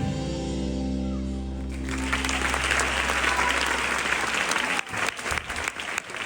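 A piece of music ends on a held chord that rings for about two seconds, then an audience breaks into applause, which thins to scattered clapping near the end.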